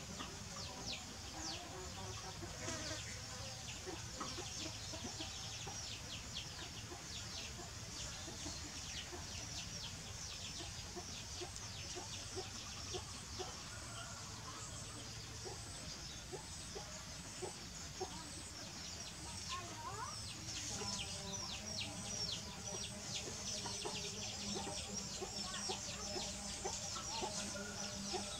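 Outdoor background of birds calling: many short, high chirps repeating throughout, with lower calls underneath.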